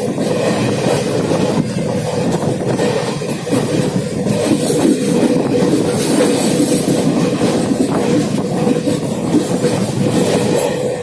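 Indian Railways passenger train running along the track: a steady, loud rumble of coach wheels on the rails, with a constant hum underneath.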